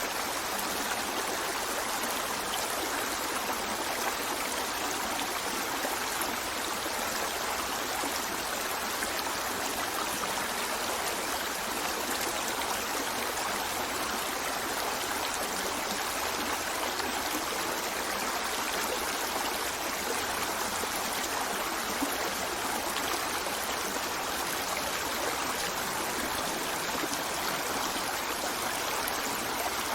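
A stream of running water, a steady rush and trickle that never lets up.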